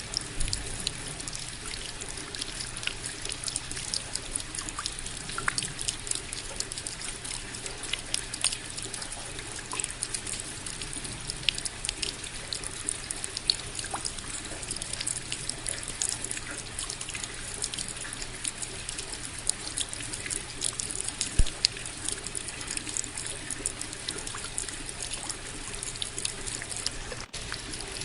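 Steady rain with many separate close drops falling and dripping at an irregular pace, and one louder drop or knock about three-quarters of the way through.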